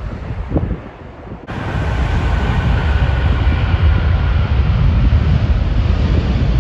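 A jet airliner's engines, a deep rumble under a faint whine, with heavy wind buffeting the phone microphone. The sound jumps abruptly louder about a second and a half in.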